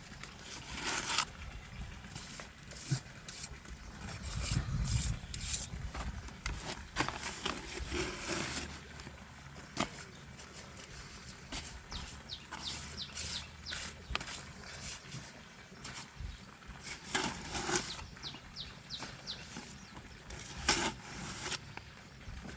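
Scattered knocks and scrapes of hand work with wet concrete and stones, as a cement wall is built up to channel water.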